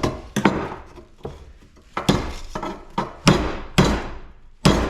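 A hammer striking aluminum scrap about nine times at an irregular pace. Each blow is sharp, with a short metallic ring after it, and the later blows are the loudest.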